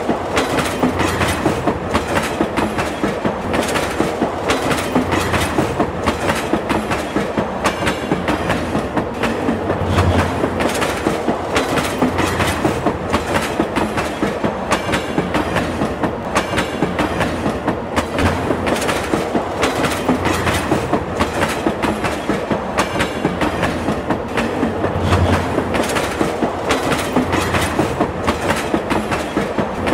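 Train running along the track: a steady, rhythmic clickety-clack of wheels passing over rail joints.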